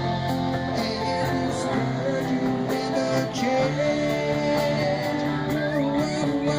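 Live rock band playing the instrumental passage of a slow ballad after the vocal ends: a guitar carries the melody with held and bent notes over bass and drums.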